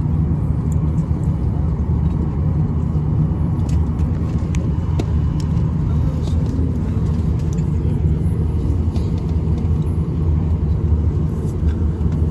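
Steady low rumble of an airliner cabin: engine and air noise, with a few faint ticks.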